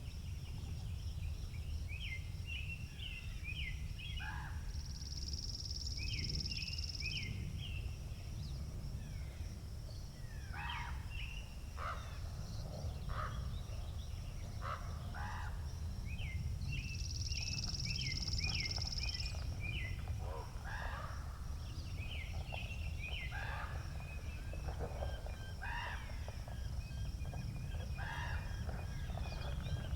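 Wind rumbling on the microphone, with small birds chirping and calling throughout. Twice a high buzzing trill lasts about two seconds, once about five seconds in and again about seventeen seconds in.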